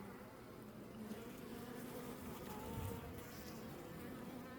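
Honey bees buzzing steadily around their hive, with single bees flying close past the microphone now and then, their pitch sliding as they go by.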